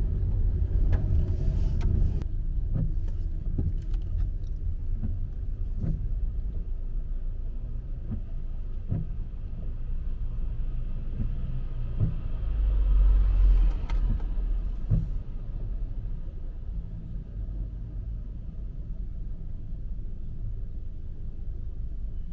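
Street traffic rumbling, with a louder vehicle passing about twelve to fourteen seconds in and scattered knocks.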